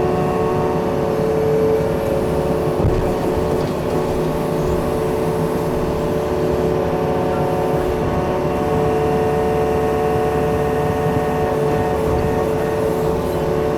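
Yanmar excavator's diesel engine running steadily under load, with a constant whine over the low rumble, as the root rake strains against a pine stump's deep taproot.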